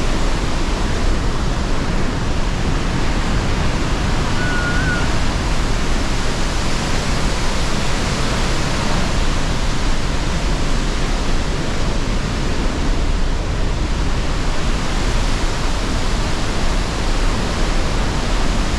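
Pailón del Diablo waterfall: a loud, steady rush of falling water, unchanging throughout.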